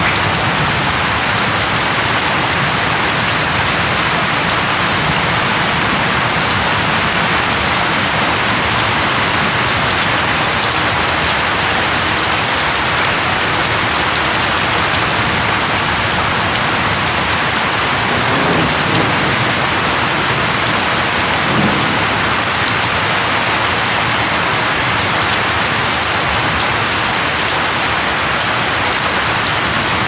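Steady, dense rainfall, with two short low rumbles a little past the middle.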